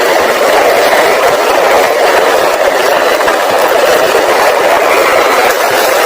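Toy truck driving along: a steady, unbroken mechanical noise of its motor and wheels, with no let-up.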